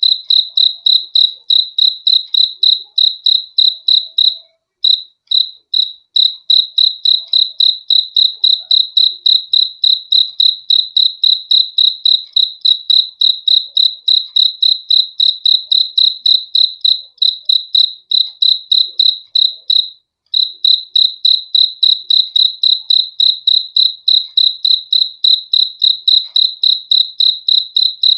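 A single cricket chirping close and loud: a high, even chirp repeated about three to four times a second, with brief breaks about four seconds in and again near twenty seconds.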